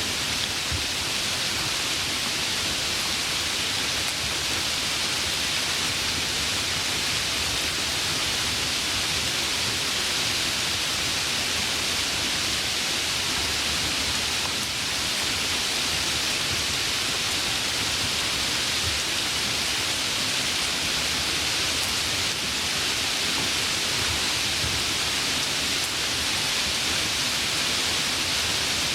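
Heavy rain falling in a steady, even downpour, with no distinct drops or thunder standing out.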